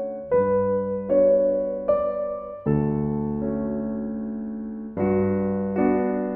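Slow, gentle piano music: notes and chords struck one at a time and left to ring out.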